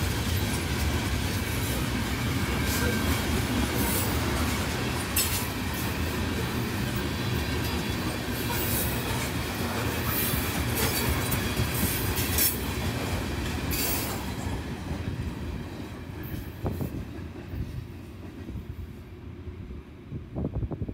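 Freight train of tank cars rolling past close by: a steady rumble of steel wheels on the rails with scattered sharp clicks. It grows quieter over the last few seconds.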